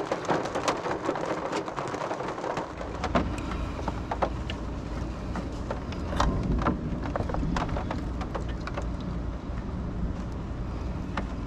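Rain falling in a thunderstorm, with many scattered sharp drop ticks. A low rumble of thunder sets in about three seconds in and keeps on.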